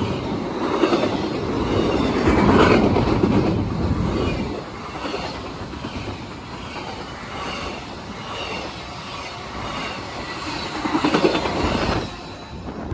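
A passing train, its steel wheels rumbling and clattering over the rails. The sound swells louder about two to three seconds in and again near the end.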